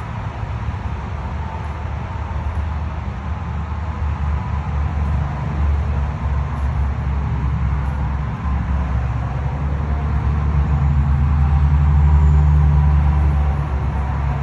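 Low, steady rumble of a vehicle engine running, swelling to its loudest about three-quarters of the way through and then easing slightly.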